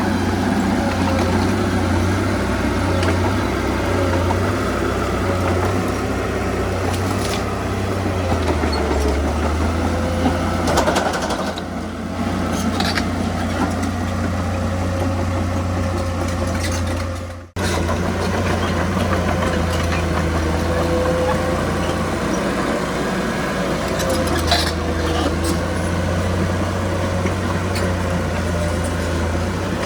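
Heavy diesel earthmoving machinery running steadily under load, a bulldozer or dump truck engine, with a few faint knocks and clanks. The sound drops out for a moment about two-thirds of the way through, then resumes.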